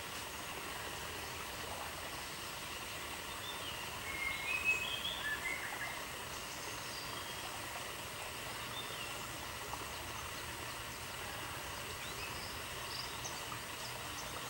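Steady outdoor ambience hiss, presented as the sound of ants crawling, with a cluster of short high chirps about four to six seconds in and a few fainter ones near the end.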